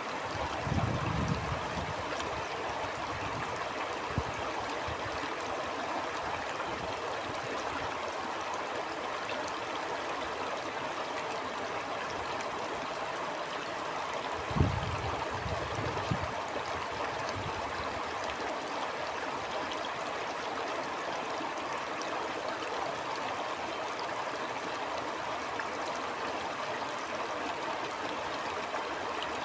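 Stream water flowing steadily. Brief low rumbles of wind on the microphone come about a second in and again about halfway through, the second starting with a sharp bump.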